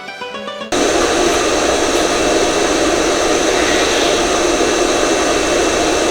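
Background music cuts off abruptly under a second in and gives way to a loud, steady rushing noise of heavy rain.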